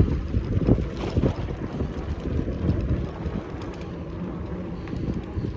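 Wind buffeting the microphone on a moving e-bike: a low, unsteady rumble with a few sharper thumps in the first second and a half.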